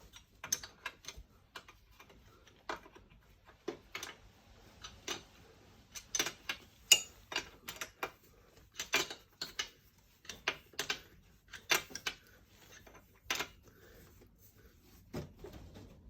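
Irregular metal clicks and taps from spanners working the nuts on the Myford Super 7 lathe's bed-levelling blocks, a trial-and-error adjustment to take out a twist in the bed.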